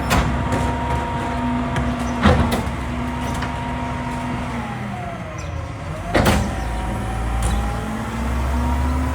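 Mack LEU garbage truck's diesel engine running, its pitch dipping about halfway through and then climbing again, with sharp metallic bangs about two and six seconds in; the second bang is the loudest.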